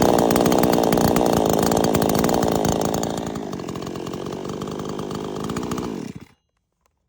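PROYAMA 62cc two-stroke chainsaw running loudly, then dropping back to a lower, steadier speed about three seconds in. The sound cuts off abruptly near the end.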